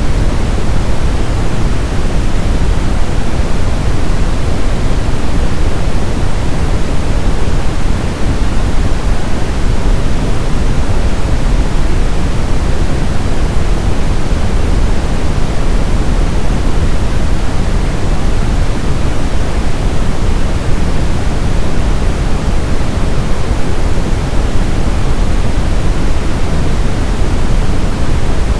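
Steady, loud brown noise: an even hiss-free rumble weighted heavily toward the low end, with no changes or events.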